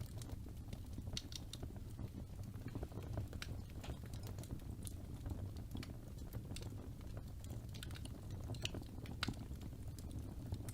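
Wood fire burning in a fireplace: a low steady rumble of flames with irregular crackles and pops from the burning logs.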